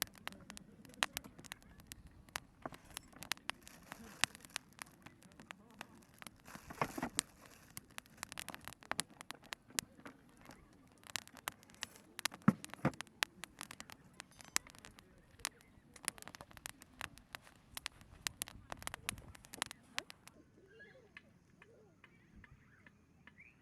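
Campfire crackling, with dense sharp pops and a few louder snaps. The crackling cuts off abruptly about 20 seconds in, leaving a quieter background with a few faint chirps.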